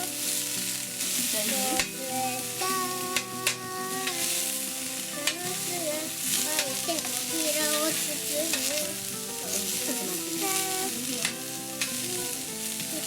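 Yakisoba frying on a griddle plate over a fire: steady sizzling, with the clicks and scrapes of a spatula stirring the noodles every second or so, and pitched tones in the background.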